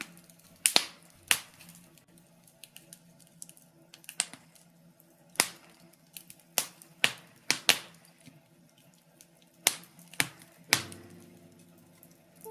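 Birch-wood fire crackling in a fireplace: about a dozen sharp pops and cracks at irregular intervals, over a faint steady background.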